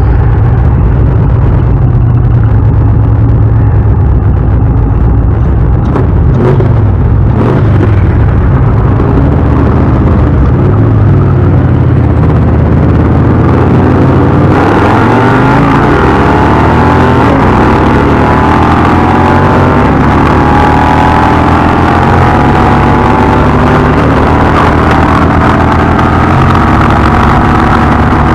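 Indian V-twin motorcycle engine running at a stop, then pulling away about halfway through, its pitch rising as it accelerates, with wind rushing over the microphone once under way.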